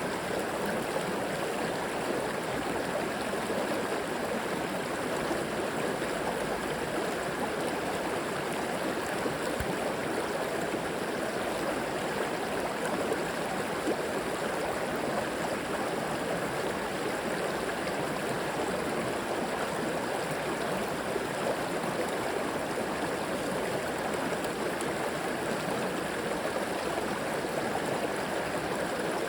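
River water flowing over rocks: a steady rushing with small gurgles.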